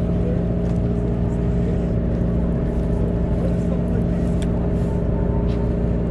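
Charter boat's engine running steadily, a constant low hum with no change in pitch. A few faint ticks come through in the second half.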